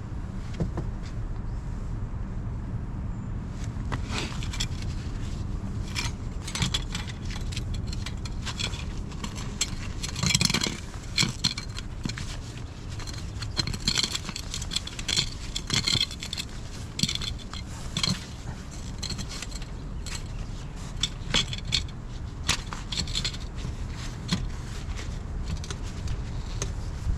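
Metal tools and parts clinking and scraping against each other, in irregular sharp metallic clinks with a short ring, busiest in the middle stretch.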